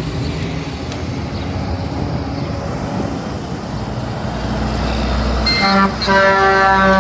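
Heavy truck passing close by, then its air horn sounds: a brief blast followed by a longer one of about a second. The spotter takes these air horns for being in bad shape and in need of work.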